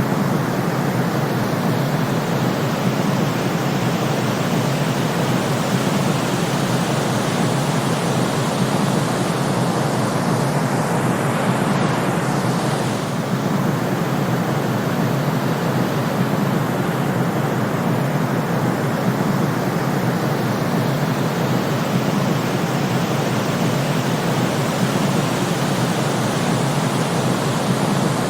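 Steady white-noise sleep track: an even, unbroken rushing hiss, weighted toward the low end.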